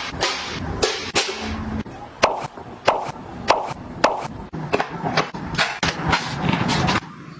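Objects being handled and set down: a string of sharp clicks and taps at irregular intervals, with rustling between them.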